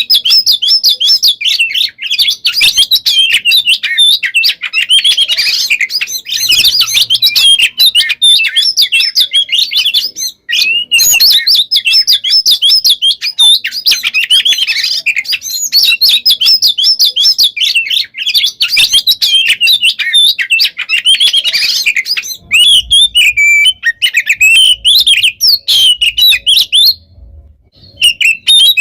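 Oriental magpie-robin (kacer) singing loudly in a rapid, nearly unbroken run of quick chirps and trills, with a short break about ten seconds in and a pause of about a second near the end.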